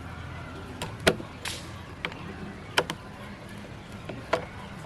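A few sharp clicks and knocks of small metal parts and tools being handled during the restoration of an antique sewing machine, over a low steady hum; the loudest comes about a second in.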